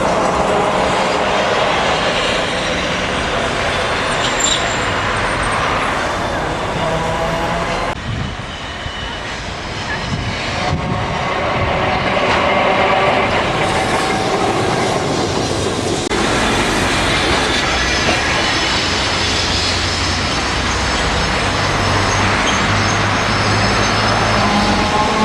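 Streetcar running along its tracks: a steady rumble with faint whining tones that shift in pitch, quieter for a couple of seconds about eight seconds in.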